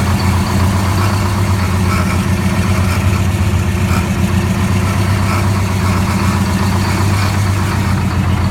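Detroit Diesel 8V71 two-stroke V8 diesel of a 1978 Ford CL9000 truck idling steadily while warming up after an ether-assisted cold start.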